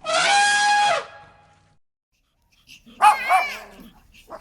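A dog crying out: one loud, steady, high-pitched whine of about a second that cuts off, then two quick yelps about three seconds in.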